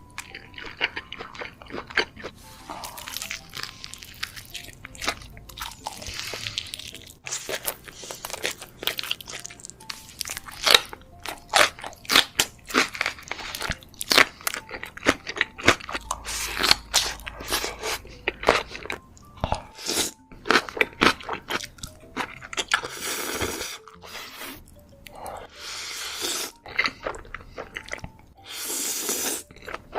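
Close-miked eating: a person biting and chewing crunchy food, with many short crisp crunches in quick succession and a few longer hissy chewing stretches near the end.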